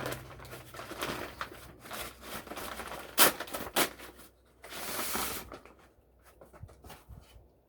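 Packaging rustling and crinkling as a vacuum accessory is unwrapped by hand, with a sharp tap about three seconds in and a longer rustle around five seconds.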